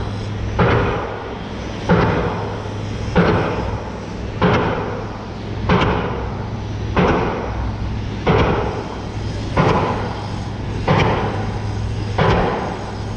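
Loud, heavy banging: a strike about every second and a third, ten in all, each with a short ringing tail, over a steady low hum.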